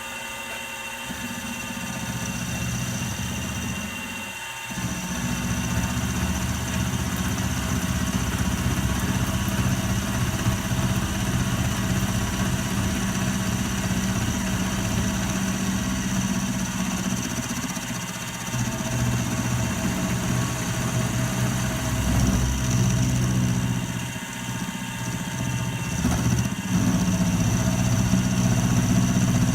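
Electric shop machine motor running with a steady low hum. The note dips and changes a few times, once about four seconds in and again past the middle and near the end.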